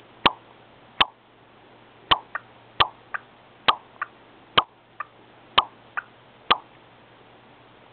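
Cockatiel making a string of sharp popping 'kiss' sounds, about one a second, several of them followed closely by a fainter second pop. The pops stop near the end.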